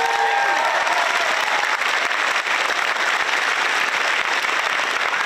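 Crowd applauding steadily, with one voice whooping in the first second and a half.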